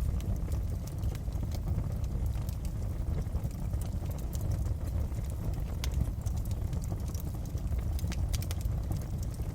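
Fireplace wood fire burning with a steady low rumble and scattered sharp crackles and pops, several in quick succession about eight seconds in.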